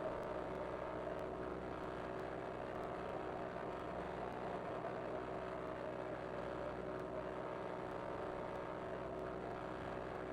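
Cessna 172 Skyhawk's piston engine and propeller, a steady drone with constant pitch and no change in power.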